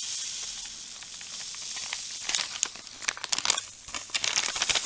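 Soft steady hiss for the first two seconds. Then the plastic MRE drink pouch crinkles and crackles as it is handled, up to the end.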